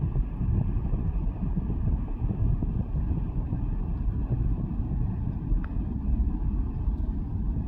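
Jet airliner engines rumbling steadily, mixed with wind buffeting the microphone.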